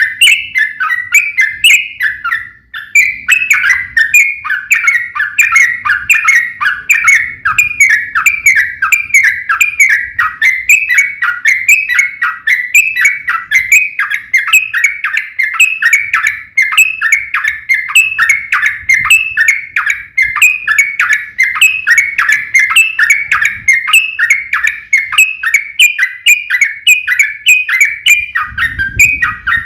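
Sooty-headed bulbul (trucukan) song in a long, rapid unbroken run of short warbled notes, about three to four a second, with a brief pause about two and a half seconds in.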